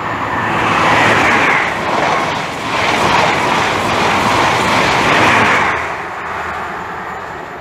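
High Speed Train (InterCity 125) led by Class 43 diesel power cars passing through the station: a loud rush of wheel and rail noise that swells, holds for about five seconds and fades away.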